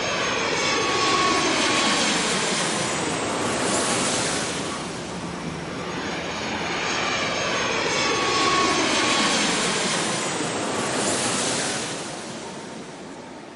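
Jet aircraft engines: a loud rushing with a high whine, swelling and fading twice, then dying away near the end.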